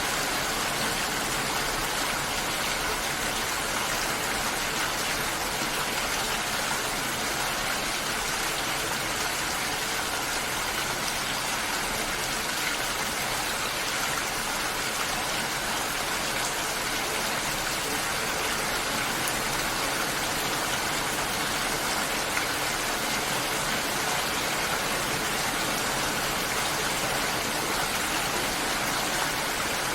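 Continuous water sound, a steady, even hiss with no breaks or changes.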